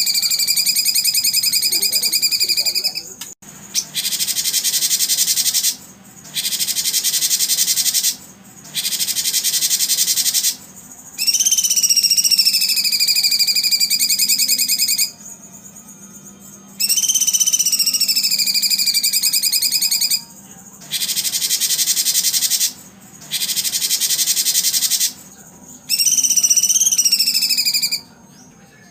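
Songbird singing in repeated phrases: a drawn-out whistled note that dips and rises slightly, alternating with a high, dry, rapid buzzing trill, each about two seconds long with short pauses between.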